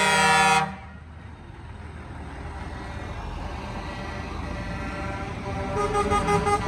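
Truck air horn blowing a steady chord that cuts off abruptly under a second in, followed by vehicle engine and road noise that slowly grows louder, and another horn starting to sound near the end.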